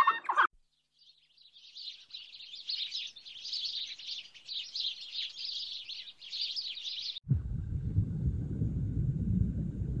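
A flock of Eurasian tree sparrows chirping, a busy twitter in repeated clusters for about six seconds. A brief burst of other animal calls ends at the very start. Just after seven seconds the chirping cuts off and a steady low rumble takes over.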